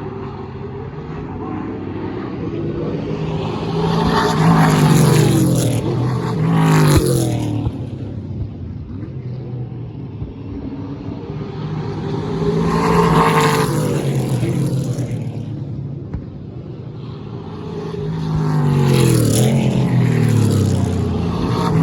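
Drift cars' engines revving as they drive past, in three passes that each swell to a peak and drop in pitch as the car goes by.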